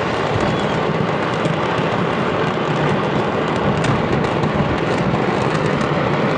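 A stock of fireworks going off in a fire: a steady, dense rumble and crackle with many sharp pops scattered through it, one sharper than the rest a little before four seconds in.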